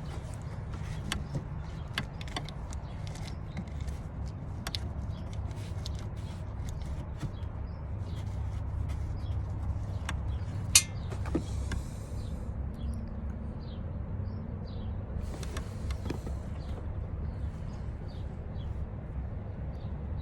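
Steady low hum under scattered small clicks and knocks of hand tools and parts being handled, with one sharper click a little past halfway followed by a brief hiss.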